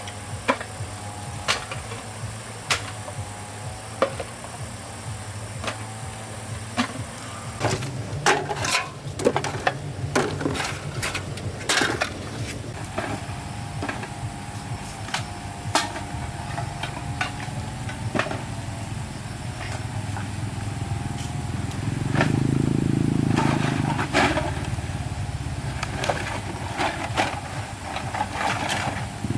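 A small engine running steadily, with repeated knocks and clatter of objects being handled; the engine gets louder about two-thirds of the way through.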